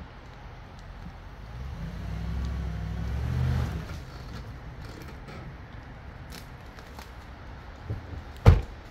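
A Jeep Commander's engine running harder for about two seconds, rising in pitch near the end, as the SUV comes off the dirt mound it was stuck on. A single loud thump about half a second before the end.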